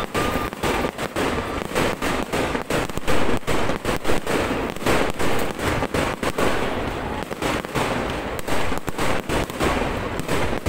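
Fireworks display: a rapid, unbroken barrage of shell bursts and crackling, many sharp bangs every second.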